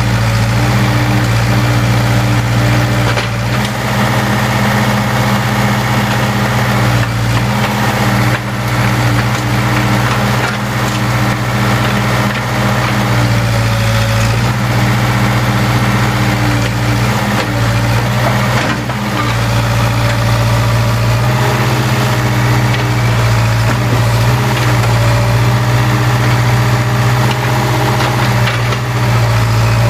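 Case 580K backhoe's four-cylinder diesel engine running steadily, its pitch rising and dipping slightly several times as it works, with a few brief knocks over it.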